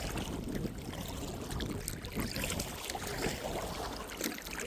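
Water lapping and trickling around a kayak on the move, with a few small irregular splashes.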